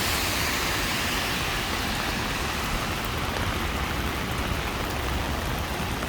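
Steady hiss of heavy rain with traffic on wet city streets. A louder hiss at the start eases off over the first couple of seconds.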